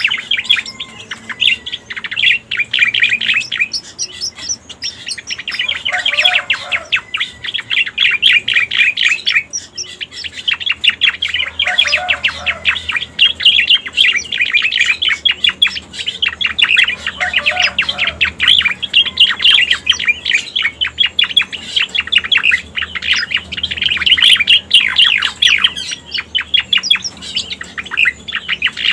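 Cica koreng bird song used as a lure call: a long run of rapid, high chirping notes that hardly breaks, with a short lower note heard three times.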